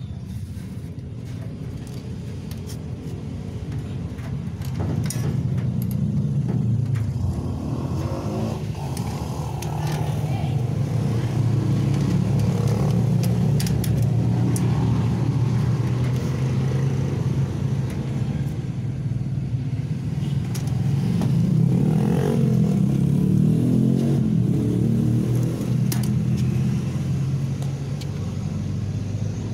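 An engine running close by with a steady low hum, swelling louder from about five seconds in and easing back near the end, with scattered light clicks and knocks over it.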